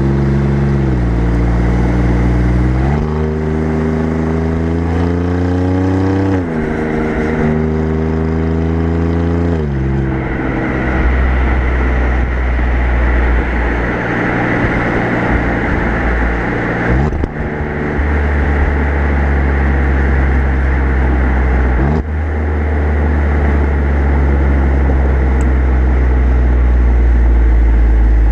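Alfa Romeo Giulia Quadrifoglio's twin-turbo V6 exhaust heard close up from the rear bumper, accelerating through the gears: the pitch rises, then drops at each upshift. From about ten seconds in it settles into a steadier cruise under a rushing noise, with a couple more shifts later on.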